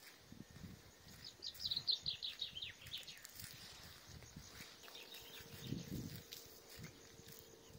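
A small bird singing a quick run of short, high notes that falls in pitch, about a second in, with a few scattered notes after it. Irregular low knocks and rustles run underneath.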